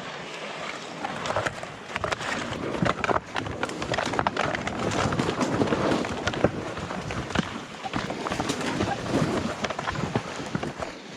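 Footsteps tramping through mud and wet slush, with sleds dragged over the ground: an uneven run of steps and scrapes.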